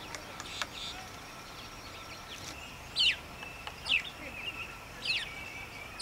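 A bird calling: a few sharp, short notes, each sliding steeply down in pitch, about a second apart in the second half. Beneath them is faint background birdsong and a thin, steady high trill.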